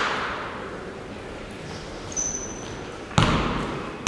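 A basketball bouncing once on a gym floor about three seconds in, the thud trailing off in the hall's echo. A second earlier there is a short, faint high squeak.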